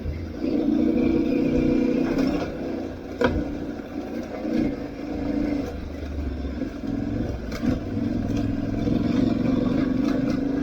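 Aprilia Tuareg 660's parallel-twin engine running off road, its revs rising and easing repeatedly, with a sharp knock about three seconds in and a few lighter clatters.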